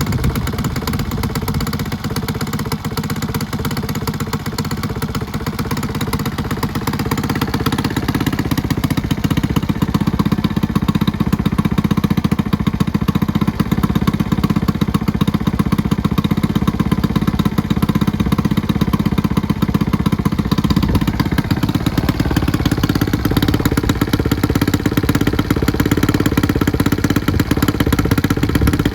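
Honda Magna 50's single-cylinder four-stroke engine, bored up to 72 cc with a PC20 carburettor, idling through a twin left-and-right exhaust. The idle is high because the engine is not yet warmed up. It runs steadily, getting louder over the first ten seconds or so.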